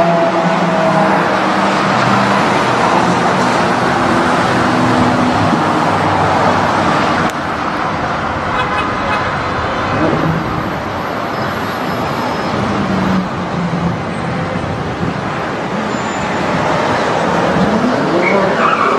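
Steady street traffic noise with car engines running. The sound drops a little about seven seconds in, and near the end an engine revs up in rising pitch.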